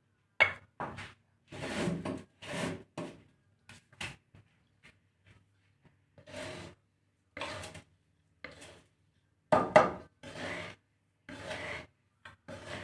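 Millet and black glutinous rice being stirred and scraped around a pan while dry-roasting: about a dozen irregular scraping strokes, the loudest about half a second in and near ten seconds in.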